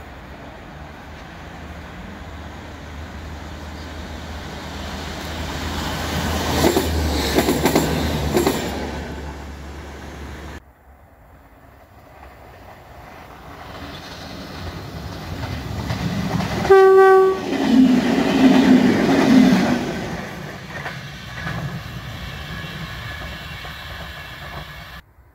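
A train passing close by, its wheels clicking over rail joints as it goes past. Then, after a cut, a locomotive gives one short horn blast and runs past with a loud low rumble.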